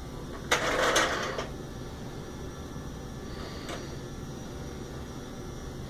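Vacuum cleaner running on a hard floor with a steady low hum, a loud rushing burst about half a second in that lasts about a second, and a faint click a little later.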